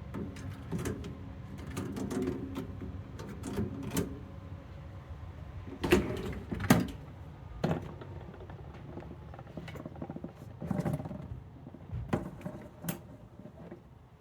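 Dishes and kitchenware being handled: a string of knocks and clinks, the loudest two close together about six seconds in, over a faint steady hum.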